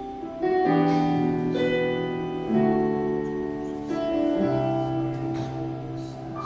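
Keyboard playing slow, sustained chords that change about every two seconds.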